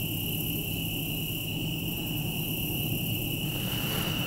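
Insects trilling steadily in a late-summer evening, one continuous high note, over a low steady hum.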